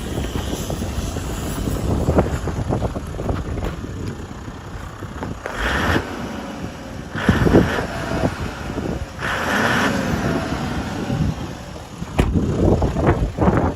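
Toyota Coaster bus's 1HD-FTE turbo-diesel engine running, with wind buffeting the microphone. Several louder swells come partway through.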